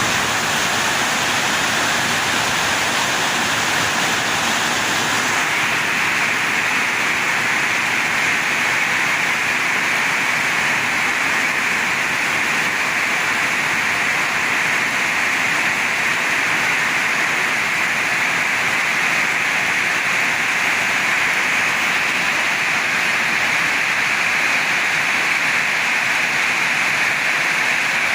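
Heavy rain falling in strong wind, a loud, steady, dense hiss; its tone shifts slightly about five seconds in.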